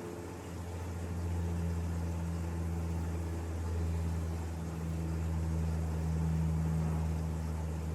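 A motor running steadily with a low hum, its pitch drifting slightly.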